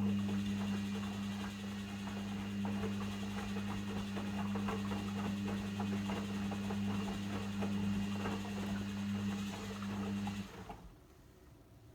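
Logik L712WM23 washing machine running with a steady electric hum and a busy rattling crackle over it, which stops abruptly about ten and a half seconds in.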